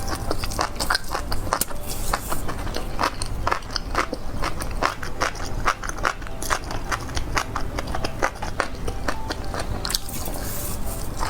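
Close-miked chewing and crunching of fried skewered food: a quick, irregular run of crisp crackles and bites over a steady low hum.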